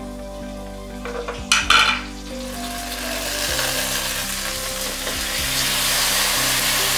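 Chilli sauce, ginger-garlic paste and ground spices sizzling in hot oil in a stainless-steel kadai as they are stirred with a wooden spatula. A few sharp metal clinks of a spoon against the pan come about one and a half seconds in. After that the sizzle grows steadily louder.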